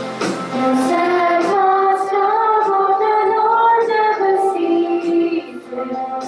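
Young voices singing a slow hymn, holding long notes.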